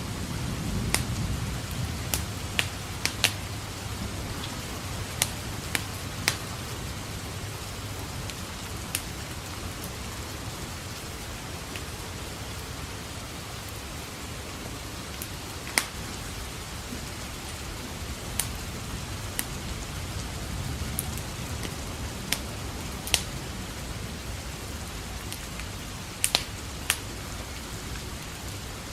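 Steady rain with irregular sharp crackles and pops from a wood fire in a fireplace, a dozen or more snaps scattered through it. A low rumble of distant thunder swells in the first couple of seconds.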